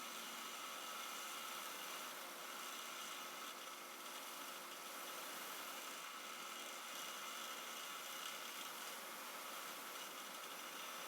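Steady faint hiss with a light hum underneath, and no distinct knocks or tool strokes.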